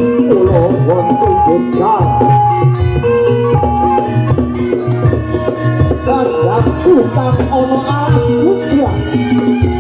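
Javanese barongan accompaniment music: hand drums beating continuously under steady struck metallophone notes, with a wavering melody line weaving over them.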